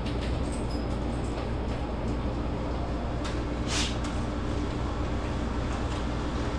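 Steady low machine hum with a faint held tone, unbroken throughout, and a brief hiss about four seconds in.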